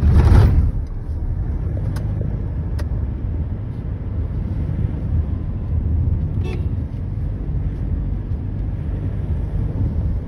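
Car engine and tyre noise heard from inside the cabin while driving, a steady low rumble. A brief loud thump comes right at the start, and a few faint clicks follow.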